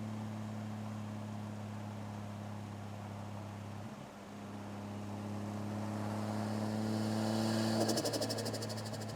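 Toyota 1JZ-GTE turbocharged straight-six running at a steady note, easing off briefly about four seconds in. It then builds louder for a few seconds, and on lift-off near the end the turbo flutters rapidly for about a second.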